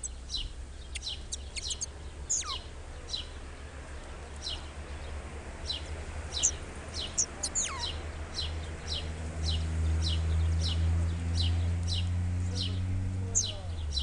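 Spotted flycatchers at the nest: short, thin, high chirps, each falling slightly in pitch, repeated about twice a second, with two longer whistles sliding down in pitch about two and seven seconds in. Under them a low steady hum grows louder in the second half.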